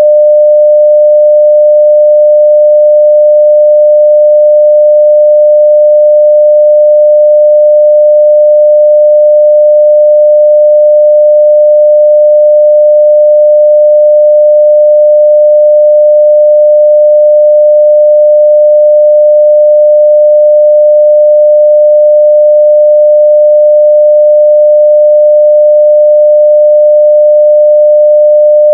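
Steady 600 Hz sine-wave test tone at full level (0 dB), one pure unchanging pitch.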